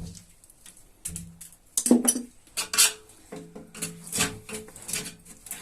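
A string of sharp clinks and knocks of hard objects being handled, the loudest about two seconds in, some ringing briefly.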